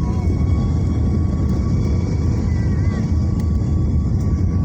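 Jet engines of a Boeing 737 airliner running, a loud, steady, deep rumble with a thin steady whine above it, heard from inside the cabin.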